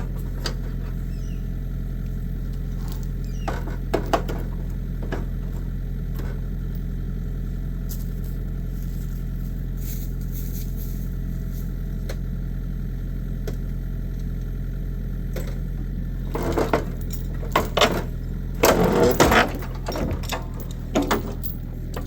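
Excavator engine running steadily, and in the last few seconds a run of loud metal crunches and clanks as the crushed car body is pulled and bent.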